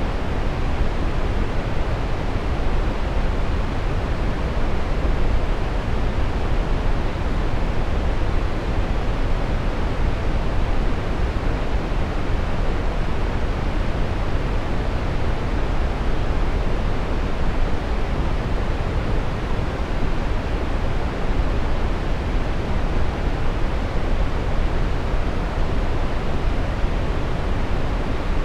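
Steady brown noise: an even, unchanging hiss weighted toward the low end, deep and rumbling, with the highs rolled off.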